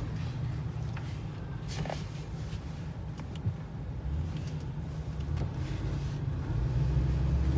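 Ford F-450 tow truck's V10 gas engine running as the truck drives, a steady low drone heard from inside the cab that builds slightly near the end.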